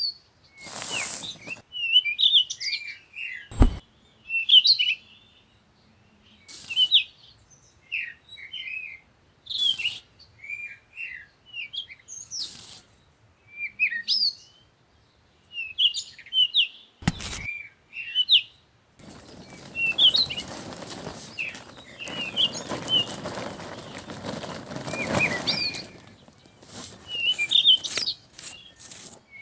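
Small birds chirping over and over in short high calls, with a couple of sharp knocks and a stretch of steady hiss past the middle.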